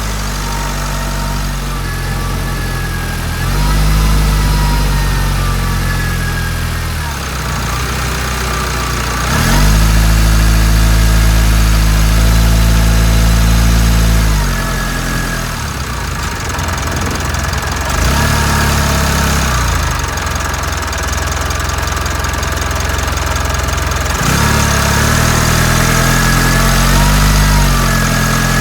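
Mitsubishi Delica D5's 2.2-litre four-cylinder turbo-diesel engine running, its speed rising and falling several times between idle and higher revs.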